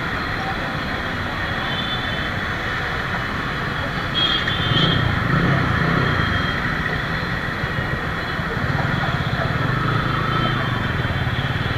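TVS Apache motorcycle engine idling while stopped, a steady low rumble that grows somewhat louder from about four seconds in.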